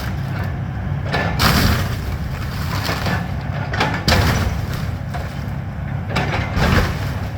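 Excavator's diesel engine running steadily while it demolishes a house, with sudden crashes and cracks of breaking debris about one and a half, four and six and a half seconds in.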